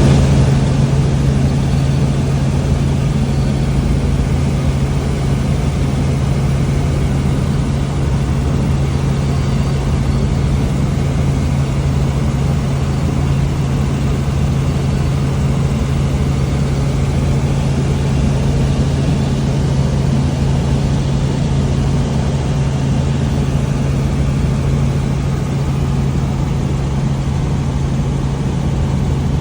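Helicopter in flight: a steady engine and rotor drone with a constant low hum, unchanging throughout.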